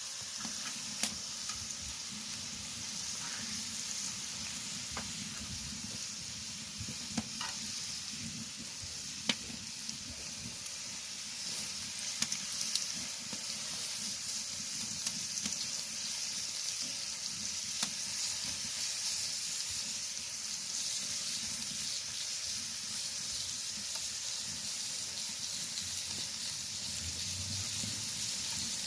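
Pork sizzling steadily on a cast-iron cauldron-lid griddle (sotttukkeong) over a wood fire, with scattered sharp pops of spitting fat.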